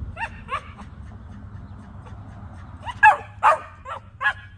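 Cocker spaniel barking and yipping in short bursts: two quick calls at the start, then a run of four louder barks about three seconds in.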